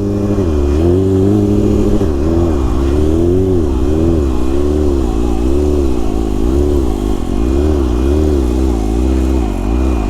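Stunt motorcycle engine running at low revs with its idle screw turned up, the revs rising and dipping about once a second.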